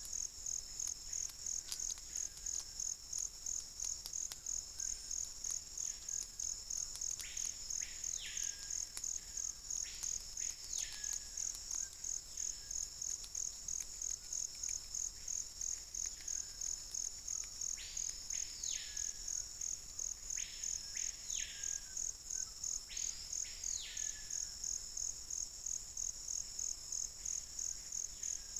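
A bird known locally as peito-de-aço calls every few seconds, each call a quick whistled sweep up and back down, sometimes two close together. Under it runs a steady, rapidly pulsing high insect chorus.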